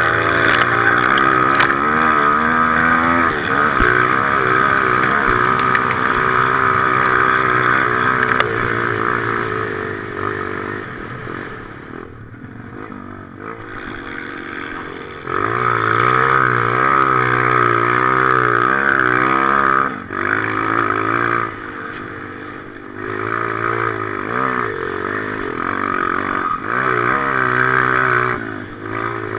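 Motocross bike engine revving hard under the rider, heard from a helmet-mounted camera, its pitch wavering up and down as the throttle is worked. The engine eases off for a few seconds about halfway through and again briefly about two-thirds in, then pulls hard again.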